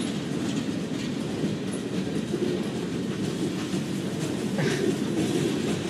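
Freight train cars rolling past, with a steady rumble and the clickety-clack of wheels over the rails.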